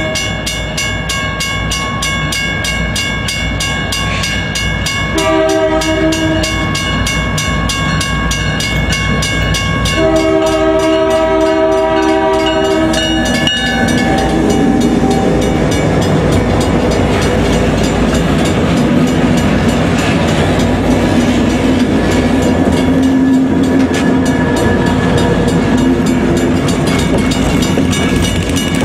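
Freight train locomotive's multi-tone horn sounding in long blasts: one ending about a second in, another about five seconds in, and a longer one about ten seconds in. After that, the steady rumble and wheel noise of the passing train, with a steady engine drone.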